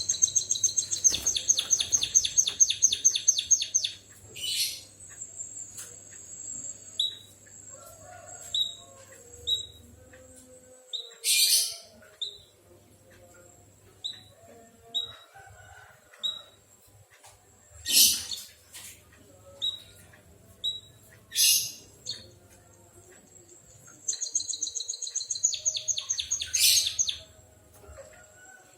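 White-headed munia (emprit kaji) singing canary-style song. A fast, high trill runs for about four seconds, then a long thin high whistle is held for several seconds with short chirps over it. Loud sharp calls come every few seconds, and a second fast trill starts near the end.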